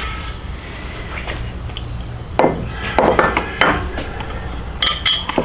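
Hand tools and metal bolt hardware clinking and knocking. A few sharp knocks come about halfway through, then a quick cluster of ringing metallic clinks near the end, over a steady low hum.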